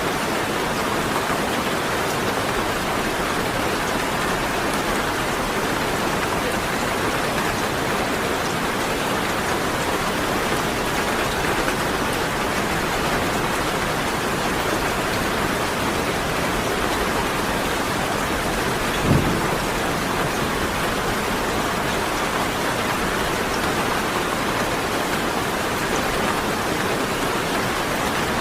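Steady rain falling, an even, unbroken hiss. One brief low thump about two-thirds of the way through.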